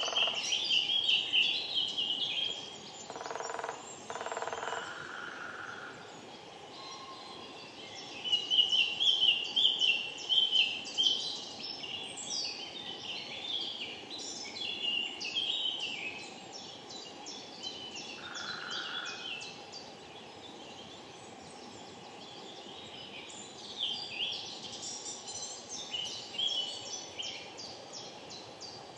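Wild birds singing: repeated series of rapid high notes in phrases a few seconds long, with a couple of short, lower calls in between.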